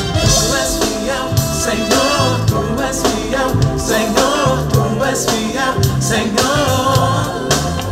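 A gospel song with sung vocals, bass and drums playing back through a pair of Adam A5 studio monitors.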